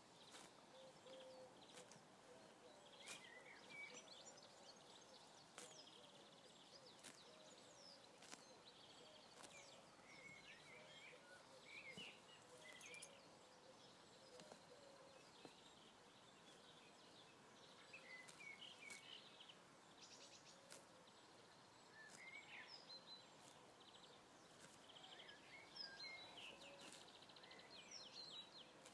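Very quiet outdoor ambience: faint, short bird chirps scattered throughout, with a few soft ticks over a low steady hiss.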